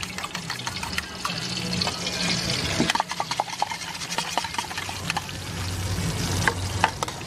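Beaten egg sizzling in hot oil in a steel wok, with sharp clinks and scrapes of a metal spatula against the wok. Background music plays underneath.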